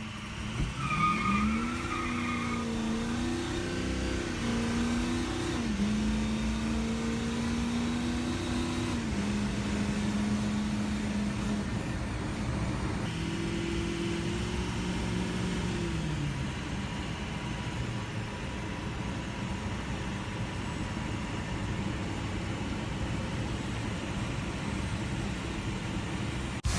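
Diesel pickup truck engine revving, its pitch climbing, holding at several steady speeds and dropping back a few times, then running steadily. A brief high whine sounds about a second in.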